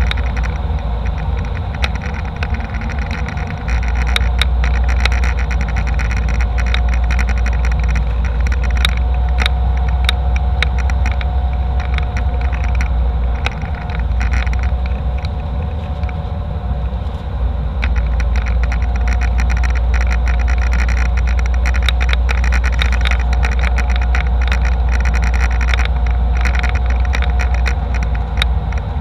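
Airliner cabin noise: a steady drone of jet engines and airflow with a strong low rumble, overlaid by frequent small clicks and rattles.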